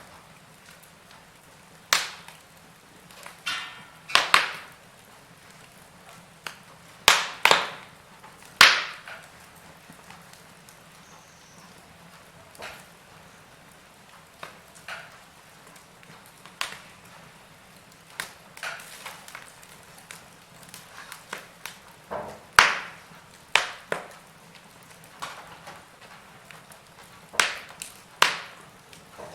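Wood fire burning in a fireplace, crackling with sharp, irregular pops every second or so, a few of them loud, over a faint steady hiss.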